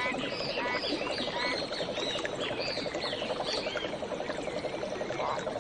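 A chorus of frogs calling in a steady, fast pulsing trill, with birds chirping over it, the chirps thickest in the first few seconds and thinning out toward the end.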